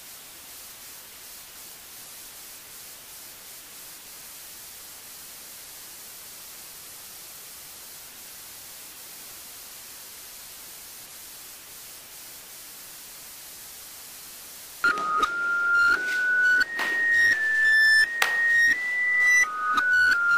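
Steady hiss for about fifteen seconds, then a simple tune of pure electronic tones begins, each note held briefly and stepping up and down in pitch.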